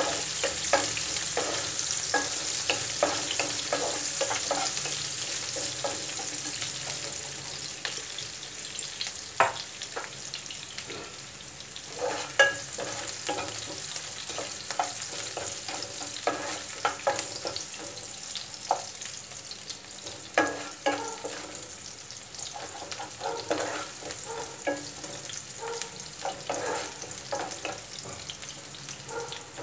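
Chopped onion and cumin seeds sizzling in hot oil in a kadai while a wooden spatula stirs and scrapes the pan, giving irregular clicks and taps over a steady hiss. The onion is being sautéed until it softens. The hiss eases off somewhat over the first ten seconds.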